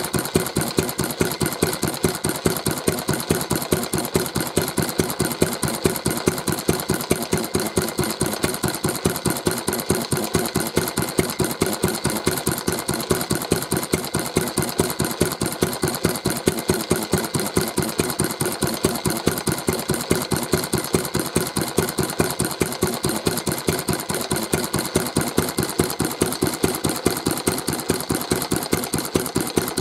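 Old Mitsubishi J1-type kerosene stationary engine running steadily at idle, firing in an even, unchanging rhythm.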